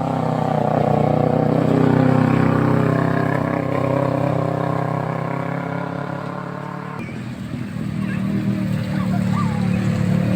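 Vehicle engines pulling up a steep hill, a steady pitched engine note. About seven seconds in it changes abruptly and a different engine's note takes over.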